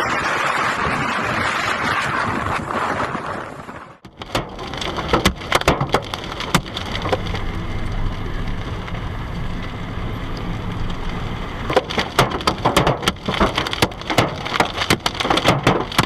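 Storm wind rushing hard on the microphone for about four seconds, then, after a sudden cut, heavy rain pelting a hard surface in many sharp hits over a low steady hum.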